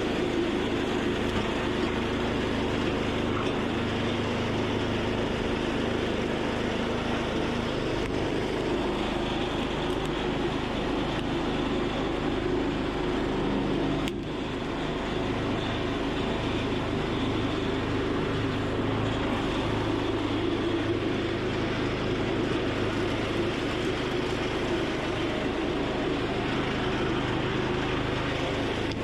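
A small petrol engine running steadily, with a brief dip and click about halfway through.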